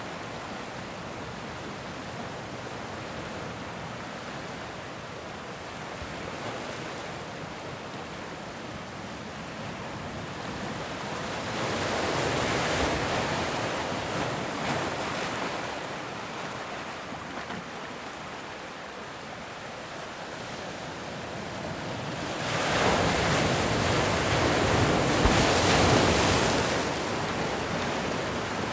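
Ocean surf: waves breaking and washing in as a steady rush. The noise swells about twelve seconds in, and more loudly for several seconds near the end as a bigger wave breaks.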